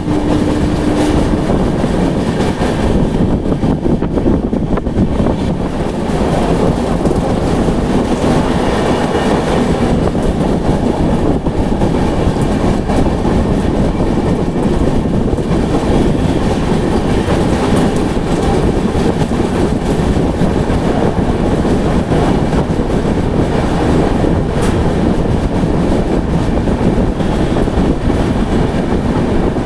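Passenger train running on the rails, with a steady, loud rumble of wheels and coach. A brief low steady tone sounds in the first second and a half.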